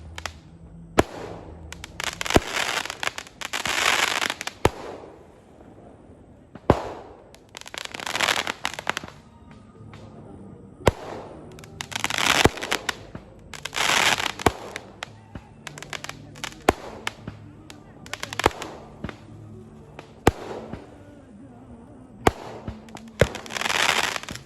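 Firecrackers and fireworks going off: many sharp single bangs scattered through, with repeated crackling, hissing bursts lasting about a second each.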